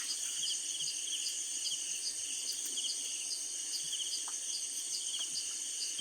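Crickets and other night insects chirping steadily: a continuous high trill with a pulsed chirp repeating about twice a second. A few faint clicks sound now and then.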